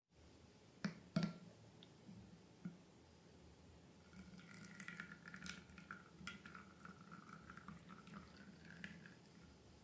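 Quiet wet slime squishing and dripping. Two sharp clicks come about a second in, then several seconds of sticky squelching and crackling.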